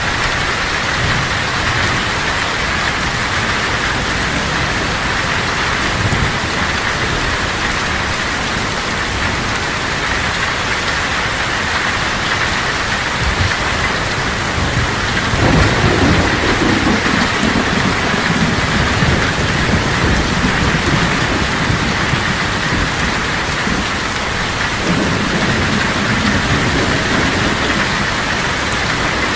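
Heavy tropical rain drumming steadily on a tin roof, with a roll of thunder rumbling in about halfway through and another near the end.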